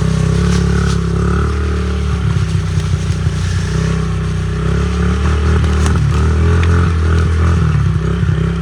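Honda CRF50 pit bike's small four-stroke single-cylinder engine running as it is ridden over a rough dirt trail, with scattered clattering knocks from the bumps.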